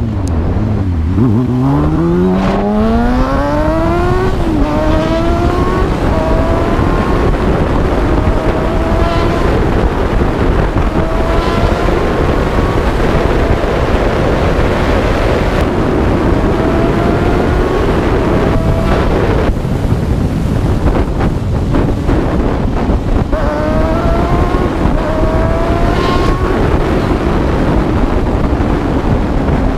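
Motorcycle engine accelerating hard through the gears: its pitch climbs, drops back at each upshift and climbs again several times, over heavy wind rush on the microphone.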